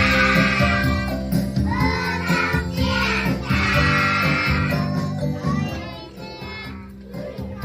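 A group of young children singing a children's song over backing music, with a light jingling; the music gets quieter about two-thirds of the way in.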